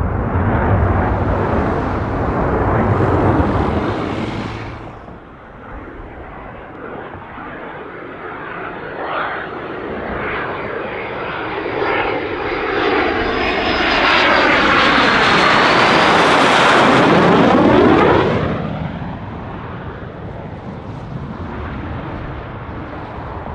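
Jet aircraft passing low overhead. Engine noise dies away in the first five seconds, then another pass builds to its loudest about two-thirds through, with a thin high whine and a sweeping change in tone as it goes over, and fades.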